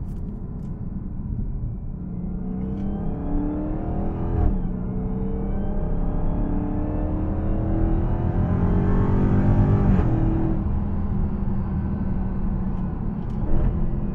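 Dodge Hellcat's supercharged 6.2-litre Hemi V8, fitted with an aftermarket Legmaker air intake, revving up with a high supercharger whine above the engine note. The pitch climbs, drops sharply about four and a half seconds in, then climbs again to its loudest near ten seconds before falling back.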